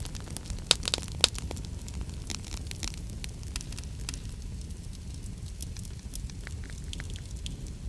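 Wood fire crackling: irregular sharp pops and snaps over a steady low rumble, with two louder pops a little under a second in and just after a second in.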